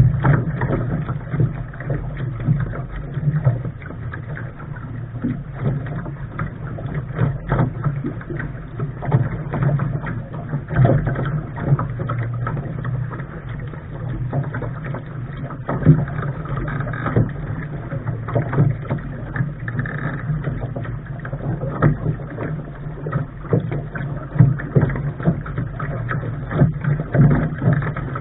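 Lark sailing dinghy under way: steady low rumble of wind and water, with water splashing and slapping at the bow and frequent short knocks of the hull and fittings.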